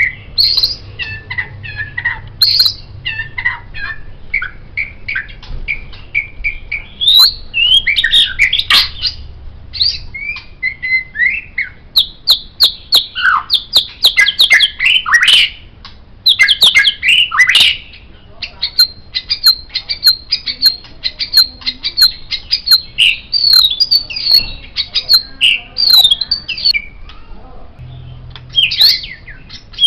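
White-rumped shama (murai batu) singing a long, varied song of rapid whistled notes, sharp chips and trills, with a few brief pauses.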